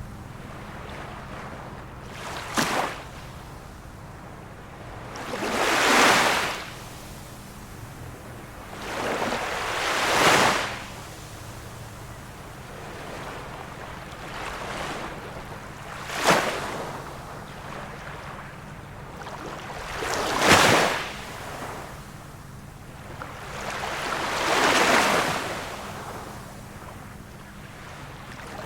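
Small calm-sea waves breaking and washing in on the shore about every three to five seconds, some as short sharp splashes and others as longer swelling rushes.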